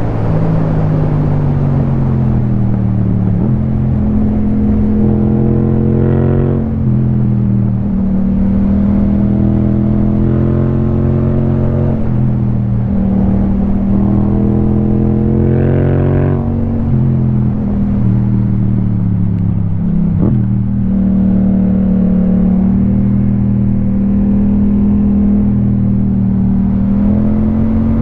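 Yamaha MT-07's parallel-twin engine, fitted with an Akrapovic Racing Line titanium exhaust, running while riding. Its pitch holds for a few seconds, then rises or drops with the throttle several times.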